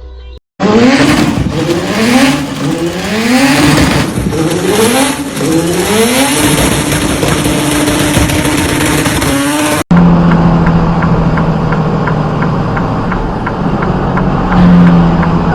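A vehicle engine accelerating hard, its pitch climbing and dropping back several times as it shifts up through the gears, then holding a steady high note, with heavy wind and road noise. After a sudden cut about ten seconds in, a different engine runs with a steady low drone.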